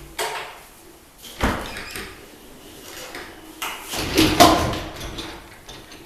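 Doors being opened and shut: a short knock at the start, a heavy thud about a second and a half in, then a cluster of knocks and rattles around four seconds in.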